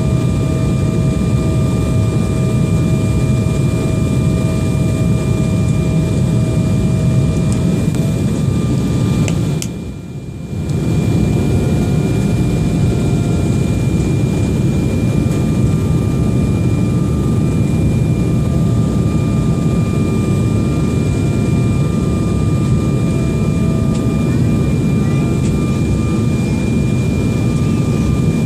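Jet airliner's engines running steadily during a landing, a loud, constant noise with steady high-pitched whine tones over it. The sound dips briefly about ten seconds in.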